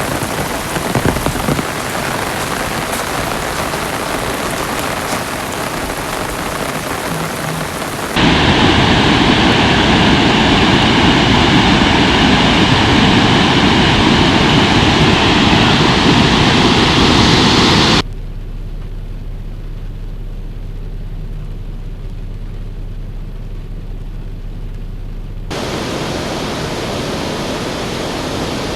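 Heavy rain in several abruptly cut sections. Steady rain hiss runs for about eight seconds, then a louder rush of water for about ten seconds, then a quieter, muffled stretch with a low hum, and steady rain again near the end.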